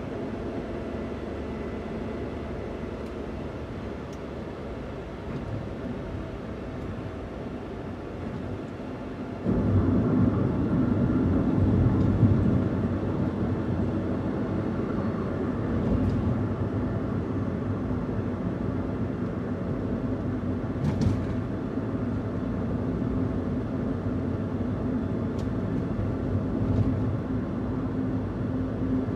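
Daihatsu Hijet kei van's three-cylinder engine running as the van drives; about a third of the way in it gets suddenly louder, with a stronger low hum, and stays louder.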